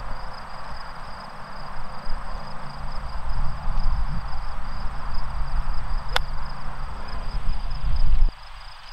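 Insects trilling steadily outdoors over a loud low rumble that cuts off suddenly near the end, with one sharp click about six seconds in.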